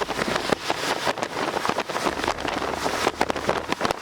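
Gusty wind rushing past and buffeting the microphone in irregular blasts, with a low vehicle rumble underneath.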